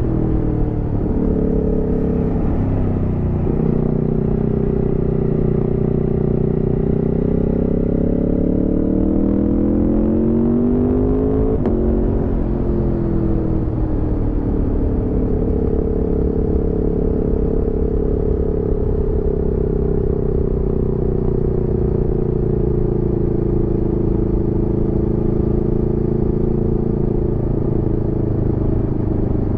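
Aprilia Tuono V4 motorcycle's V4 engine on the move: it pulls up in revs for several seconds, drops suddenly at a gear change about twelve seconds in, then runs at a fairly steady speed.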